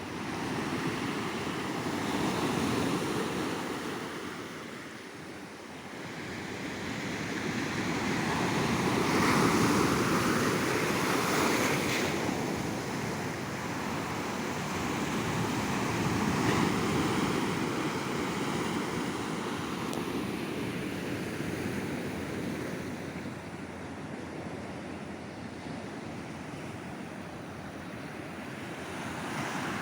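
Ocean surf washing onto a beach, waves swelling and breaking in slow surges, the loudest about a third of the way in, then easing off. A little wind rumbles on the microphone.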